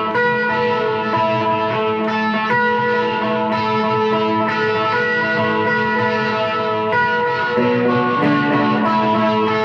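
Guitar with a capo high up the neck playing first-position chords around D in a major key, through chorus and a short delay, the chords ringing and changing every second or so.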